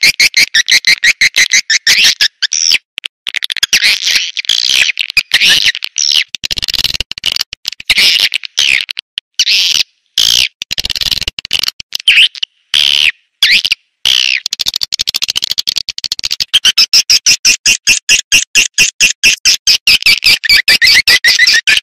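Recorded edible-nest swiftlet calls used as a swiftlet lure. A fast, even chirring run of short chirps at the start and again from about two-thirds of the way through, with a more broken stretch of twittering, gliding calls between.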